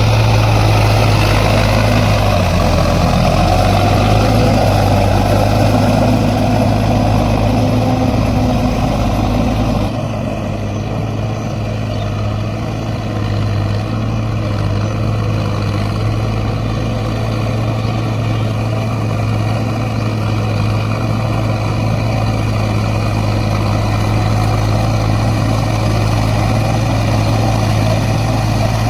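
Mahindra 605 Di-i tractor's 3531 cc four-cylinder diesel engine idling steadily. About ten seconds in, the sound turns a little duller and quieter.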